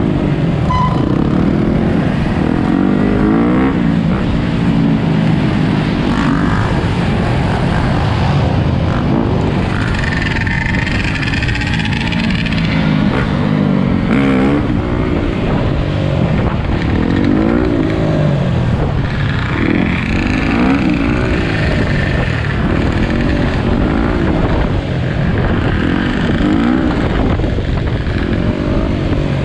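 Dirt bike engines revving up and down again and again, several at once, their pitches rising and falling over one another.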